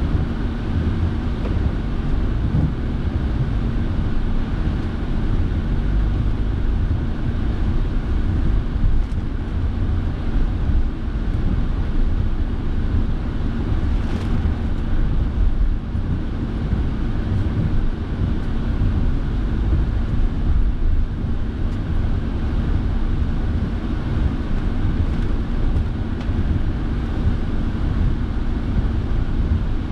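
Steady engine and road noise inside a moving car's cabin, with the heater fan blowing hard enough to drown out speech.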